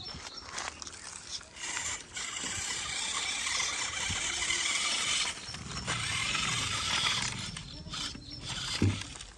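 Toy RC tractor's small electric motor and plastic gears whirring and squealing as it runs, coming and going, with a short knock near the end.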